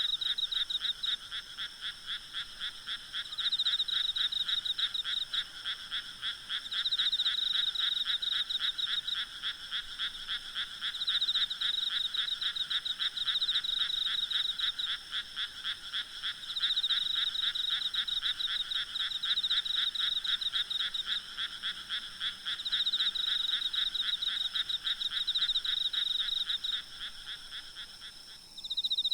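A chorus of frogs croaking in fast, continuous pulses, swelling in louder spells every few seconds, over the steady high trilling of insects. The frog chorus stops abruptly about a second before the end, leaving the insects trilling.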